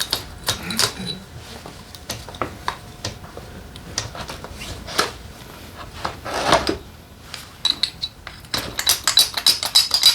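Hand tools and metal engine parts clicking and clinking during motorcycle engine disassembly, with a quick run of rapid clicks near the end.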